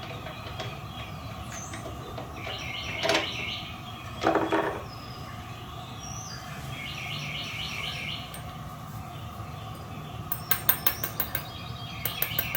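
Small metal taps and clinks as a spark plug's ground electrode is knocked down to close its gap: a single click, then a ringing clink about four seconds in, and a quick run of sharp taps near the end. A songbird sings a short phrase of rapid notes three times in the background.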